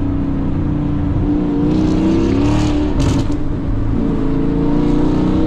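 Car engine under hard acceleration; its note climbs, dips about two seconds in, and climbs again toward the end.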